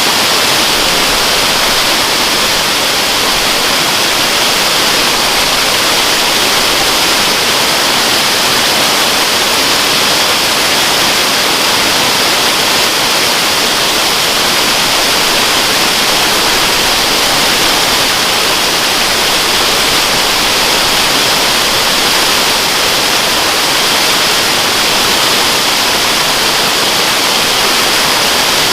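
Waterfall: a steady, unbroken rush of falling water, strongest in its hiss.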